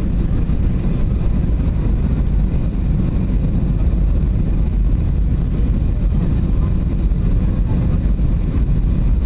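Boeing 737 cabin noise: a steady low rumble of jet engines and airflow heard from inside the passenger cabin.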